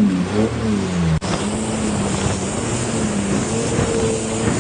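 Jet ski engine running under way, with water and wind rush. Its pitch rises and falls at first, then holds steady after a sudden break about a second in.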